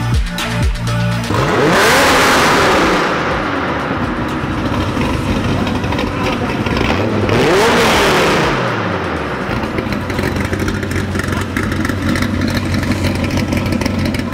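Car engine revved hard twice, each rev climbing in pitch and then falling away, then settling into a steady idle. The revs begin about a second in, after a moment of electronic music.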